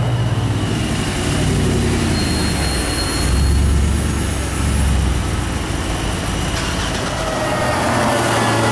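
Supercar engine running steadily at low revs, a loud low-pitched engine note.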